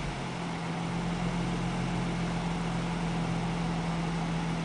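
Nissan 350Z's 3.5-litre V6 idling steadily through its stock exhaust, a constant low hum with no change in revs.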